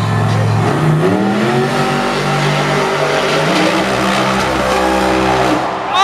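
Monster truck engines running hard at full throttle, with a climb in pitch about a second in as one revs up. The engine note then holds high and steady.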